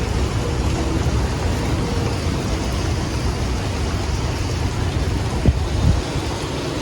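Strong storm wind gusting with rain, buffeting the microphone with a steady low rumble. A short sharp knock about five and a half seconds in.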